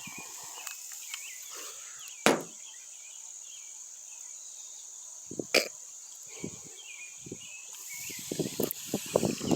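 Crickets chirring steadily and high-pitched, broken by two sharp clicks and, near the end, a quick run of soft knocks.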